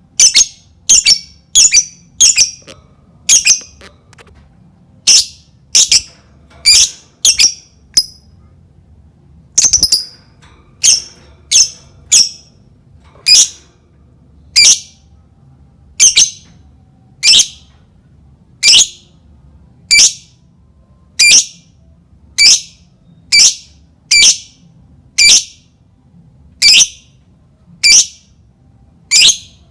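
Lovebird giving short, shrill single calls over and over. The calls come quickly at first, then after a brief pause settle into an even pace of about one call every second and a bit.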